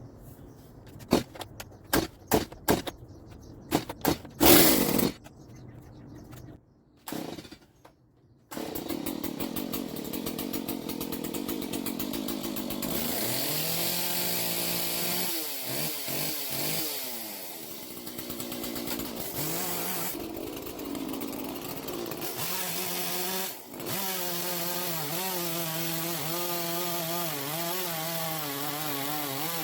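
Stihl MS170 chainsaw with its muffler opened out to a larger exhaust outlet, pull-started: a run of sharp pulls on the starter cord, then the two-stroke engine catches about eight seconds in and runs loudly, its pitch rising and falling as the throttle is worked.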